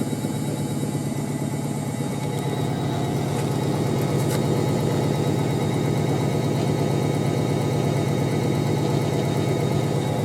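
Hoover A3308 Computer Control 1100 washing machine running with a steady motor hum, getting a little louder over the first few seconds and then holding even.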